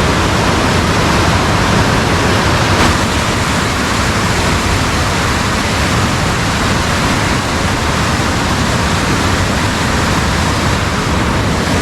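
Rain-swollen river water rushing steadily in a strong current.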